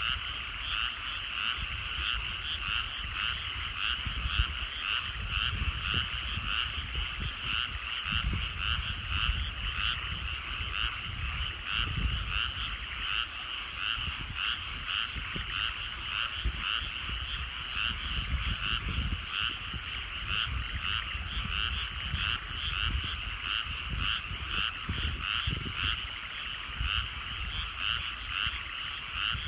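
Chorus of many frogs calling in a rice paddy, a dense, steady stream of rapid repeated croaks. An uneven low rumble runs underneath.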